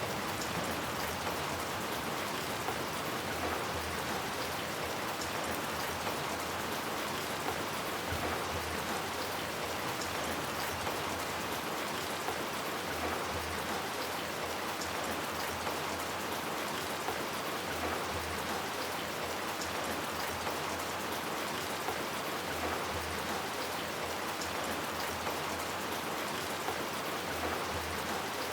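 Steady rain falling on hard surfaces, with scattered drop ticks and a faint low rumble now and then.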